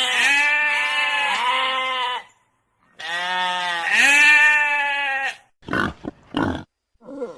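A goat bleating: two long, wavering calls, the second louder. Near the end come a few short grunts.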